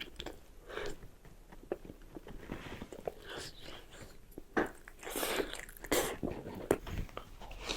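Close-miked eating sounds: irregular bites and chewing with small clicks, busiest in the second half.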